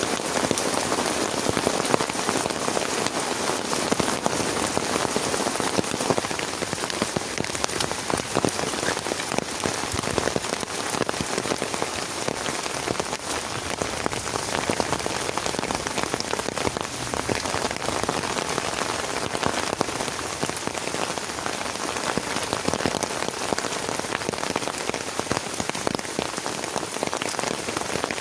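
Heavy rain falling steadily, a dense, even hiss of countless drop impacts on a surface.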